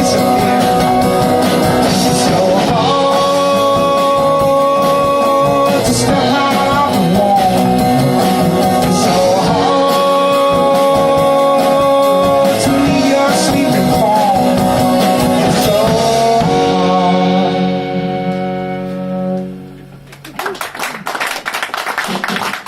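Live folk band playing the end of a song with a singing voice and guitar. The song closes on a held final chord that dies away about twenty seconds in, and the audience starts clapping just after.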